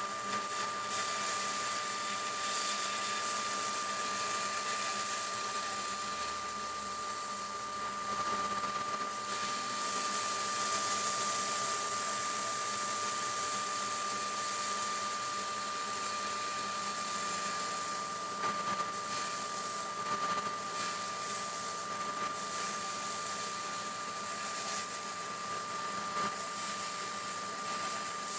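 Sandblast cabinet running: a steady hiss of compressed air driving abrasive sand onto a metal part, with the cabinet's dust extractor drawing air and a constant high tone under it.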